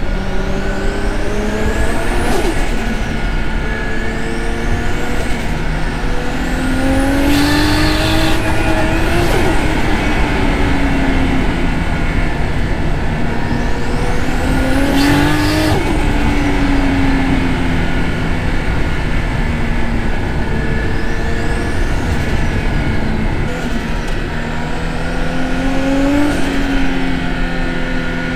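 Turbocharged RB25DET NEO straight-six in a Nissan Laurel, pulling hard up through the revs and easing off several times as it is driven through bends. Two bursts of turbo and wastegate hiss, each about a second long, come while it is on boost.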